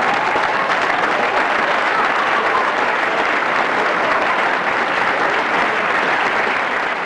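Spectators applauding steadily, a dense patter of many hands clapping.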